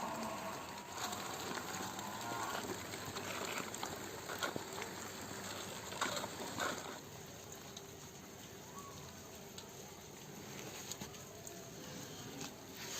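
Cattle mooing in the first few seconds, with a few scattered knocks and clicks about four to seven seconds in.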